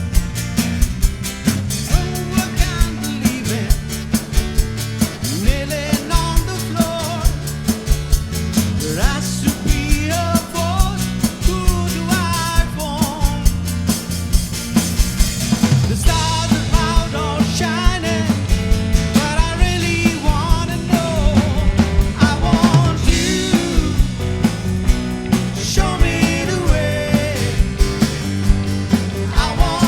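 A band playing a rock song live, with the drum kit keeping a steady beat under a singing lead line.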